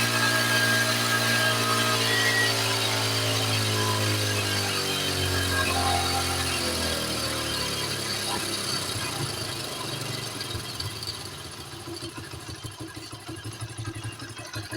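Honda CD 70's small single-cylinder four-stroke engine running while its carburetor is being set. The engine speed sinks steadily over a few seconds, then settles into a quieter, uneven, pulsing idle.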